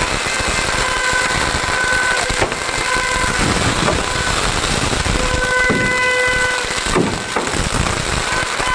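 Continuous loud din of a fireworks crowd, with a steady-pitched horn or whistle sounding in short toots several times and a couple of sharp bangs about two and a half and seven seconds in.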